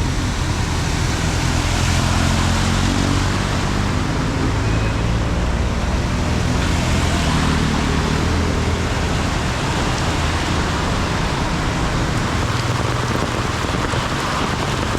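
Heavy rain hissing steadily, with a motor vehicle's engine running low underneath; the engine fades out after about ten seconds.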